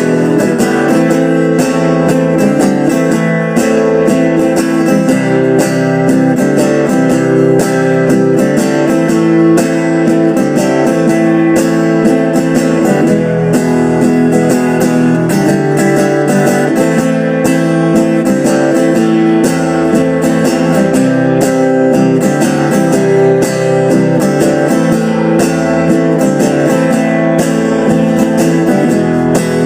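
Guitar playing an instrumental break of a slow song, held chords changing every second or two, with no singing.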